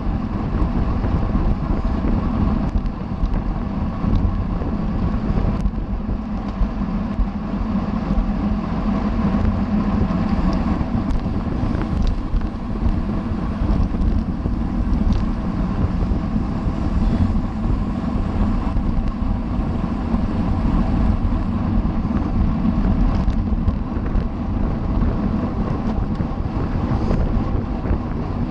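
Steady wind rushing over the microphone of a camera on a racing bicycle, mixed with tyre and road noise as the bike rolls along.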